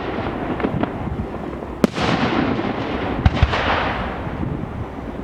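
Fireworks display: sharp bangs of bursting shells, one about two seconds in and two close together a little later, each trailing off in a long echo over continuous crackling.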